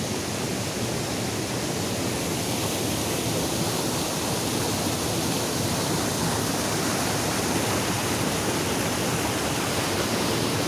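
Flowing water rushing steadily, an even roar with no change in level.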